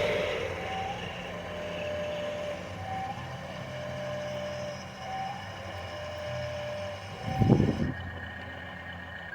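RC truck's electronic sound module playing a truck engine running steadily, with a repeating beep pattern of a short higher note then a longer lower note about every two seconds. A brief loud burst comes about seven and a half seconds in.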